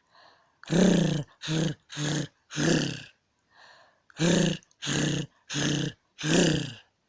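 A dog barking repeatedly, in quick runs of three or four loud barks, with faint softer sounds between the runs.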